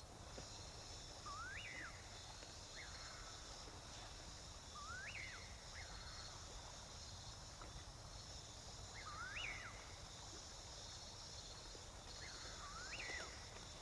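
Tropical forest ambience: a bird gives a rising call, sweeping up and dropping back, four times about every three to four seconds, with fainter short notes in between, over a steady high insect hum.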